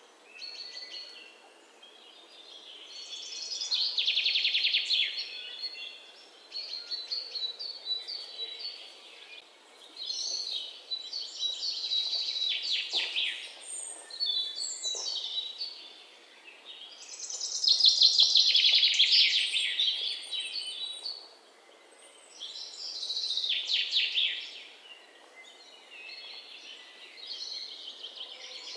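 Bird singing: high trilled, chirping phrases a few seconds long, repeating every five or six seconds, the loudest about two-thirds of the way through.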